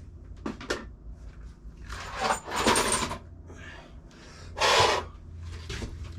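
Small metal differential parts being handled and set into a container: a few light clicks, then two short scraping, rattling bursts about two and five seconds in.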